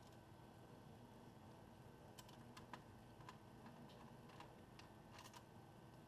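Near silence with faint, irregular small clicks and taps from laptop parts being handled and fitted back together, a handful bunched together near the end.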